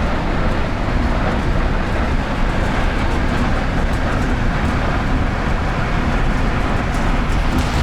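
A moving train running with a steady, loud rumble from its wheels on the track.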